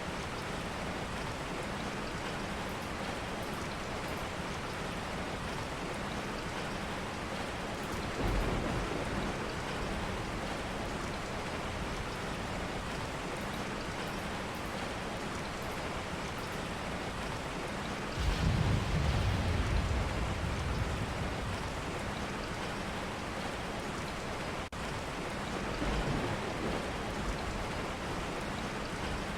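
Steady rain from a rain ambience track, with a few low thunder rumbles swelling in, the strongest about two-thirds of the way through.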